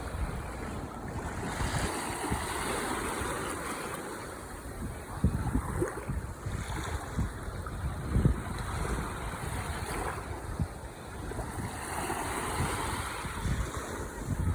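Ocean waves washing onto the shore, the surf swelling and easing twice. Wind buffets the microphone, giving scattered low thumps, the loudest about eight seconds in.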